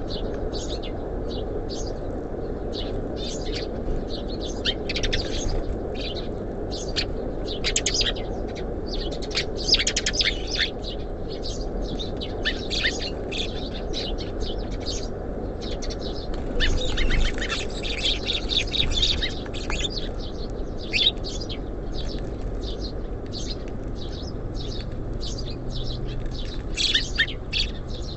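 Small songbirds chirping at a feeder: many quick, short chirps, busiest around ten seconds in and again a little past halfway, over a steady low background rumble.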